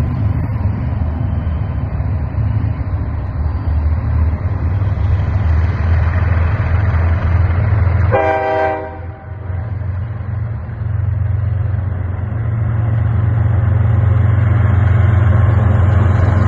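Diesel freight train locomotives rumbling steadily, with a short blast of the air horn about eight seconds in.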